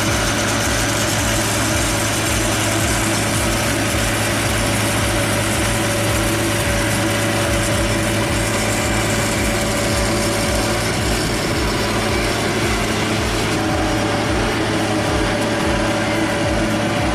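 An engine running steadily with a low, even pulsing rumble and a constant hum, unchanged throughout.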